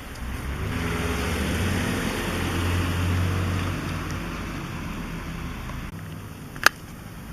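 Demolition excavator's diesel engine working, growing louder over the first few seconds and then easing off, with a hiss over the top. One sharp knock near the end.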